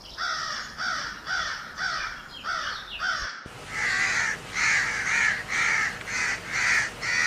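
Crows cawing in a rapid, evenly spaced series of about two caws a second. About three seconds in there is a brief break, and a second run of harsher, louder caws follows.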